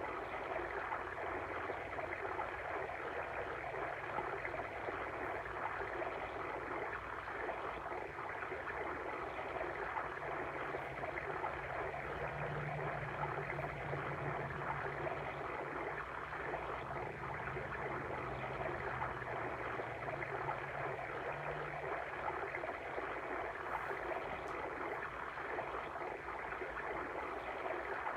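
Water stream running and babbling steadily.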